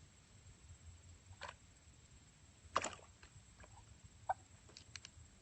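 A hen giving a few short, quiet clucks, with one sharper, louder noise about three seconds in.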